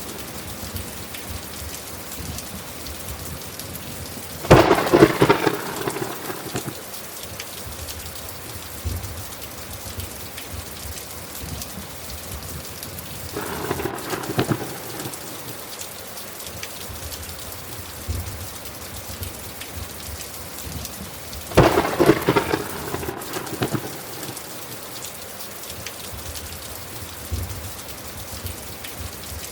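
Steady rain falling, with three cracks of thunder about four seconds in, halfway through and about two thirds of the way through; the first and last are the loudest.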